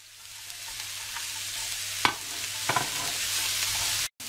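Carrot sticks and sliced onions sizzling in hot oil in a wok, the hiss swelling over the first second as the vegetables heat. Two sharp knocks against the wok come about two and three seconds in, and the sound cuts out for a moment near the end.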